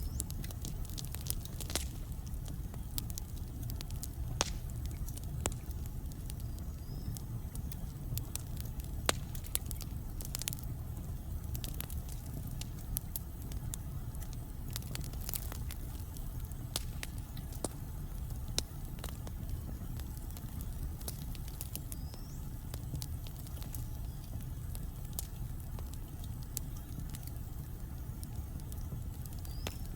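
Logs burning in a fireplace: a steady low rumble with frequent sharp crackles and pops, which thin out in the second half, and a few brief high squeaks.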